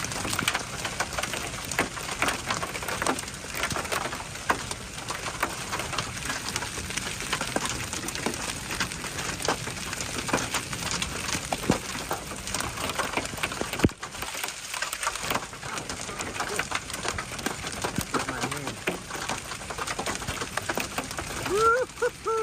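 Hailstones falling and striking hard surfaces: a dense, irregular patter of sharp knocks over a steady hiss of rain. Near the end a brief wavering, voice-like cry cuts in.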